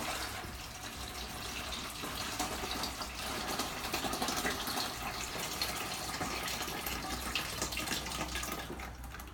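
Water running out of a toilet tank through the hole left by the lifted-out flush valve, a steady flow that drops off near the end.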